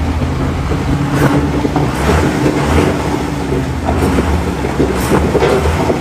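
Heavy truck engine running steadily while under way, a low drone with road and body noise and a few light knocks.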